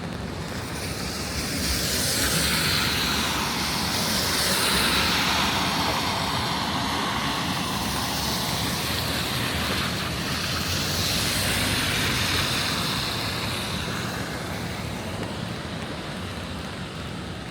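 A vehicle passing, over steady rain. Its hiss swells about two seconds in and sweeps down in pitch and back up, then fades near the end.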